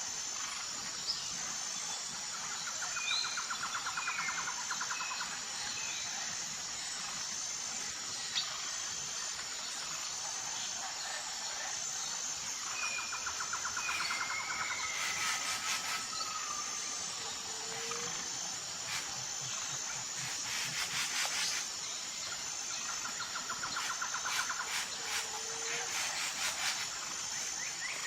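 Tropical forest ambience: a steady, pulsing high insect chorus, with short bird chirps and whistles and a few trills. Bursts of rapid clicking come in several times around the middle and later part.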